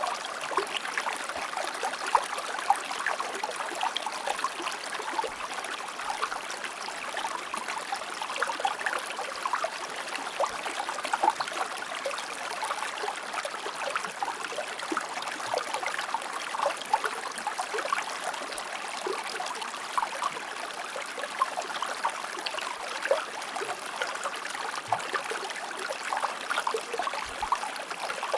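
A shallow river or stream flowing over rocks: steady babbling and trickling with many small splashes.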